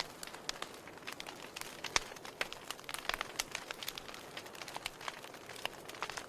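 Wood fire in a fireplace crackling: frequent irregular pops and snaps over a soft steady hiss, with a sharper pop about two seconds in.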